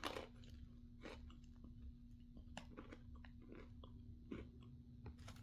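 Faint chewing, with a few scattered crunches of a crunchy seasoned pretzel snack being eaten.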